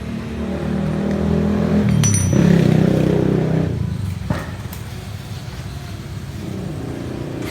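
Kawasaki D-Tracker motorcycle engine idling through an AE Tech Cobra aftermarket exhaust, revved once about two seconds in and dropping back to idle about two seconds later; a short click follows.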